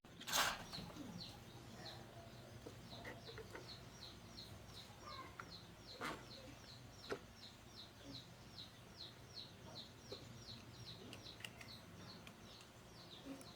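A bird chirping over and over, about three short falling notes a second, faint. A sharp knock about half a second in is the loudest sound, with two lighter knocks later. A low hum runs underneath.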